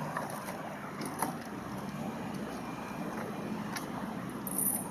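Steady low vehicle rumble, with a few faint clicks and a short high hiss near the end.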